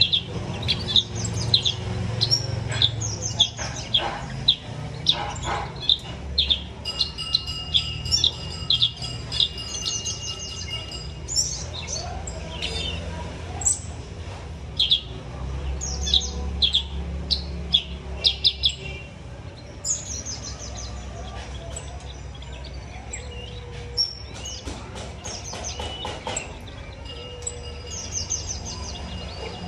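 Small aviary birds chirping and calling, with quick runs of short high repeated notes from several birds. The chirping is busiest in the first half. A low steady rumble runs underneath.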